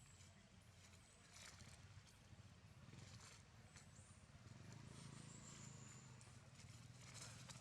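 Near silence: faint outdoor background with a low hum and scattered soft clicks and rustles.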